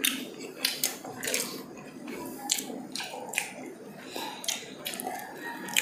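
Close-up eating sounds from people chewing tender braised pork ribs: wet lip smacks and mouth clicks, about two a second, with soft squelching in between.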